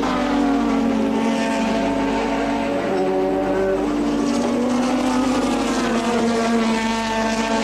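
1986 turbocharged Formula One car engine running at racing speed, its pitch stepping up and down a few times.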